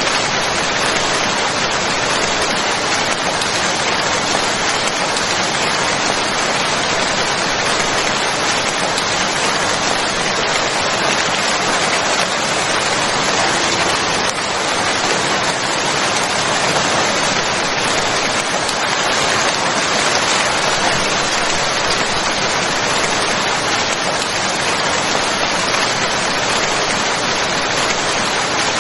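Steady rain falling, an even hiss of many drops with no single impacts standing out.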